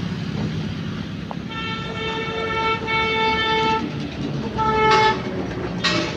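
A vehicle horn sounding three toots: two long ones nearly joined, then a short one, over steady engine and traffic noise.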